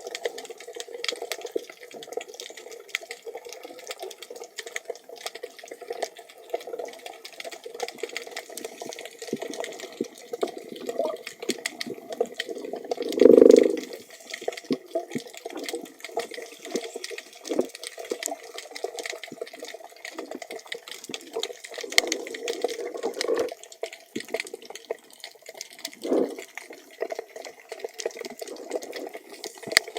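Underwater water noise heard through a diving camera's housing, with many small clicks and crackles throughout and a loud bubbling gurgle about halfway through.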